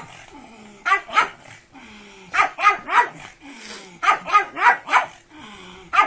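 Pug barking excitedly in quick bursts of two to four sharp barks, with short falling whines between the bursts.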